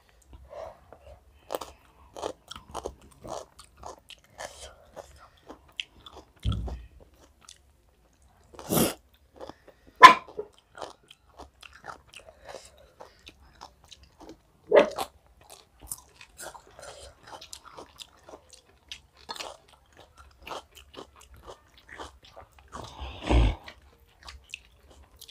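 Close-up chewing and eating of chicken biryani by hand: many small, soft mouth clicks and smacks, with a few louder sharp knocks and a couple of duller bumps scattered through.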